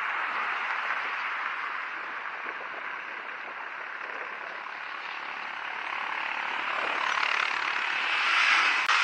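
Steady rushing noise of riding a bicycle on the road, wind and tyre noise, swelling toward the end with a single sharp click just before it ends.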